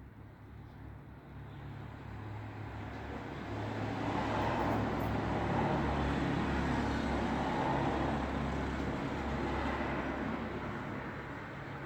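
A road vehicle passing by: engine and tyre noise swells over the first few seconds, holds loudest in the middle, then fades toward the end.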